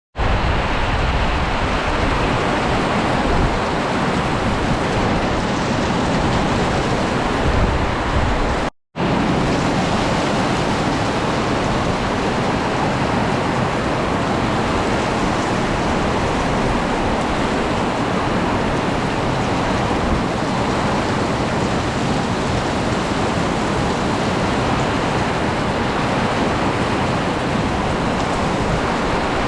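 Heavy rain pouring down in a windy storm, a loud steady hiss. The sound drops out for a moment about nine seconds in.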